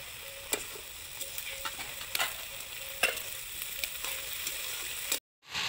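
Potato, eggplant and flat-bean pieces frying in hot oil in a steel kadhai, sizzling steadily while a perforated steel ladle stirs them, knocking and scraping against the pan a handful of times. The sound drops out for a moment near the end, and the sizzle comes back louder.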